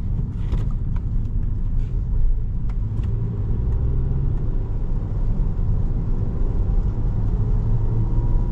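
Cabin sound of a 2017 Volkswagen Jetta SE with its 1.4-litre turbo four-cylinder on the stock exhaust, driving: a steady, quiet low engine and road rumble. The engine note rises slowly from about three seconds in, and a few light clicks come in the first three seconds.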